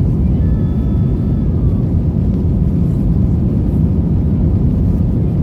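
Steady low rumble of jet engines and airflow heard inside the passenger cabin of an Airbus A321-200.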